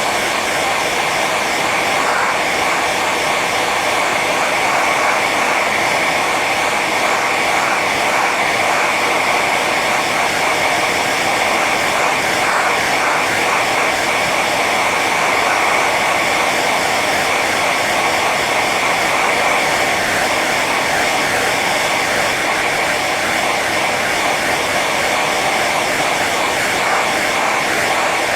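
Hair dryer running steadily on its high setting: an even rush of blown air with a whine from the fan motor.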